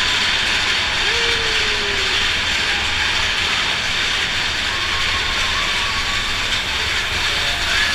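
Big Thunder Mountain Railroad mine-train roller coaster running along its track, heard from on board as a steady mechanical rumble and rattle.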